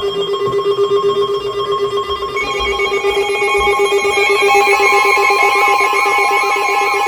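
Weather radio receiver's alert alarm for an incoming warning: a loud, fast-trilling tone that starts suddenly. Higher tones join it about two seconds in, and a warbling up-and-down sweep follows in the last seconds.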